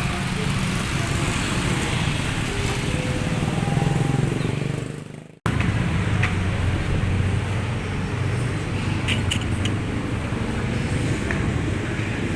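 Steady motor-vehicle engine rumble, like traffic. About five seconds in it fades out and cuts straight back in.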